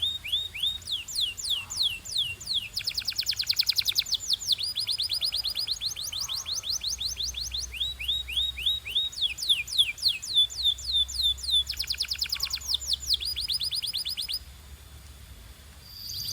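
Canary singing: fast trills of rapidly repeated, sharply falling whistled notes, switching from one trill to the next every second or two. The song stops about two seconds before the end.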